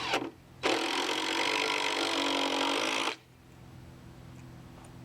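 A handheld power tool runs steadily on lumber for about two and a half seconds, after a brief burst at the start.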